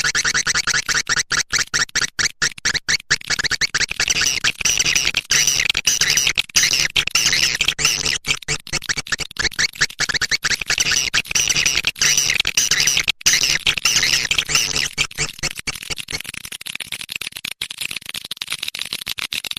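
Swiftlet-house lure sound: a recording of edible-nest swiftlet chirps and twittering, dense with rapid clicks, over a steady low hum that fades out about three-quarters of the way through.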